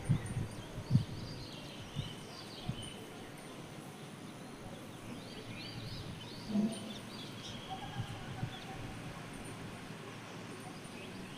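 Several small birds chirping and singing in short high calls throughout, over a steady outdoor hiss. A few low thumps sound near the start, and a brief lower-pitched call comes about six and a half seconds in.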